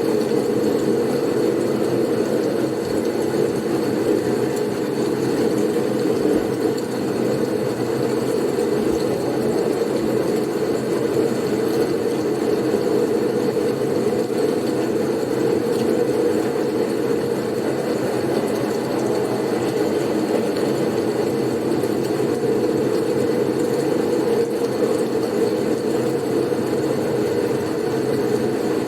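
Steady blizzard wind noise: a continuous low rushing sound, even throughout, with no gusts, breaks or separate events.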